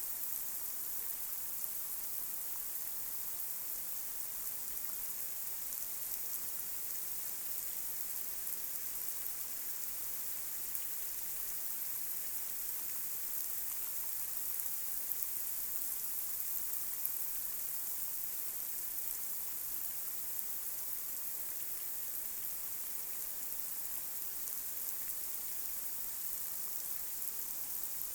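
Light rain falling on a street: a steady high hiss with scattered faint drop ticks.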